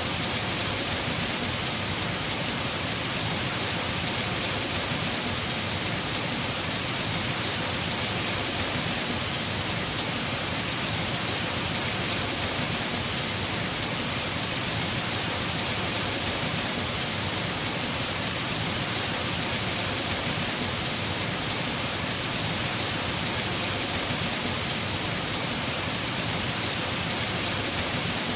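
Heavy rain falling on a house roof, a steady dense hiss with no breaks.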